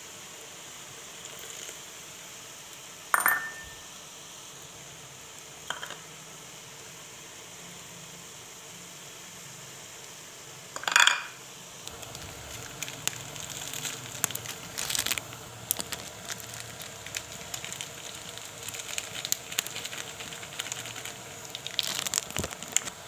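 A few sharp clinks on a steel wok, the loudest about halfway, then the vegetables in the hot pan start sizzling and crackling as chilli sauce goes in, and carry on to the end.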